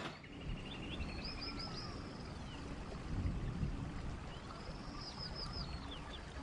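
Birds chirping: two runs of quick, arching chirps, a few seconds apart, over a low steady background noise.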